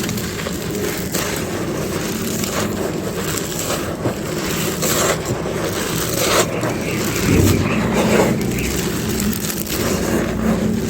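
Dry, fully baked clay pot pieces being crushed and crumbled by hand: a continuous crunching crackle of many small breaks. It grows louder about seven seconds in.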